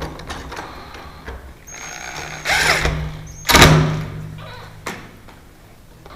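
A small power tool runs with a steady hum while it grinds an over-long lock screw down to length, with two louder rough grinding bursts in the middle.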